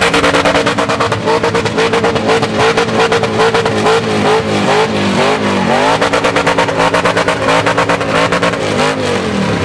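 Burnout car's engine held at high revs, pulsing hard and steadily, as the rear tyres spin on the pad. About halfway through the revs dip and rise again, then it settles back to a steady high note.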